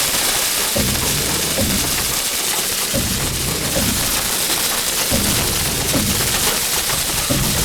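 The music of a children's TV channel bumper, heavily distorted by a 'G-Major' effects edit so that it comes out as a loud, harsh hiss over irregular low pulses.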